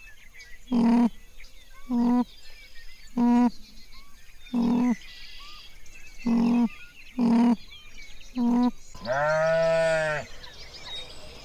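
An animal calling over and over: seven short, pitched calls about a second and a half apart, then one longer call near the end. Faint bird chirps sound in the background.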